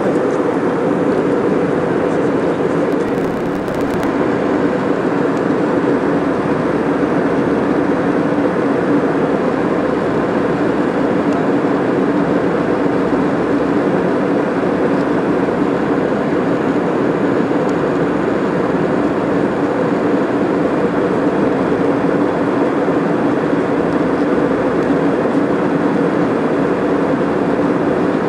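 Steady drone of a passenger airliner heard from inside the cabin: engine and airflow noise with a constant low hum, unchanging throughout.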